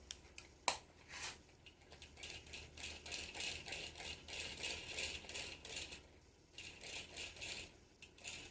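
Plastic toy washing-machine kit rattling with rapid clicking as it is worked. There are a couple of sharp knocks in the first second, then a lull about six seconds in before the rattling resumes.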